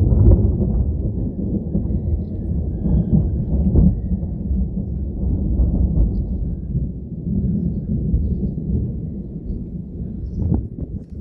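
Long rolling thunder rumbling low and deep, slowly dying away toward the end.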